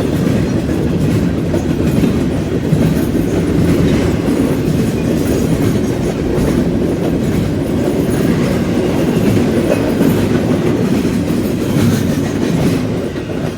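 Freight train rolling past: a steady loud rumble of steel wheels on the rails, with irregular clicks as the wheels cross joints.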